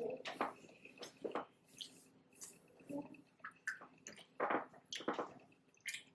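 Close-miked chewing and wet mouth sounds of someone eating, in short irregular bursts.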